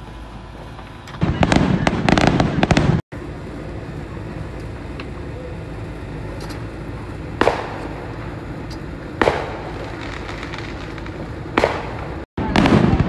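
Fireworks going off: a dense run of crackling about a second in, then single bangs a couple of seconds apart, and more crackling near the end. Two brief dropouts break the sound.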